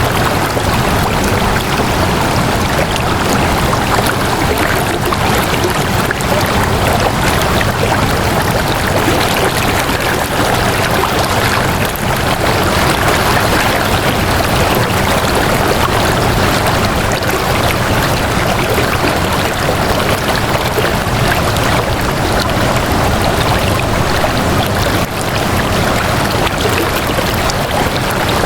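Flowing water running steadily, an even, unbroken rush with no breaks or individual splashes.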